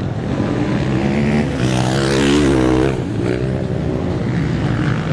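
Motocross dirt bike engines revving on the track, with one bike's pitch rising and falling about two seconds in as it accelerates past.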